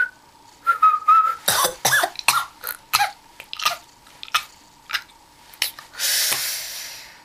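A person whistles a short note, then makes a string of short sharp mouth clicks and coughs, and ends with a long breathy exhale.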